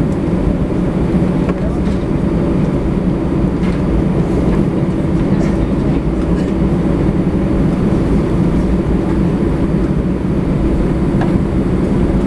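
Steady low rumble inside an Airbus A320 cabin as it taxis, the engines running at low power and the airframe and wheels rumbling, with a few faint ticks.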